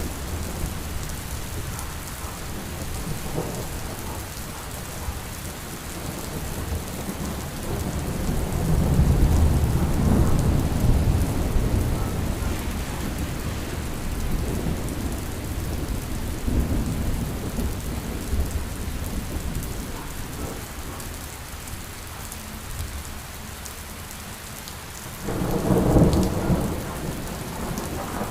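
Steady rain with thunder: a long low rumble swells about a third of the way in, and a sharper clap of thunder breaks out a few seconds before the end.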